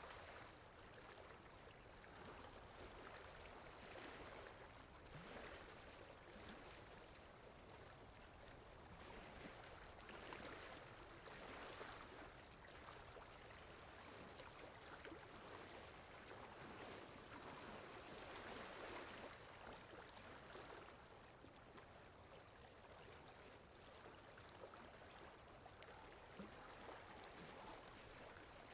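Rain falling steadily, a faint even hiss that gently swells and eases every several seconds.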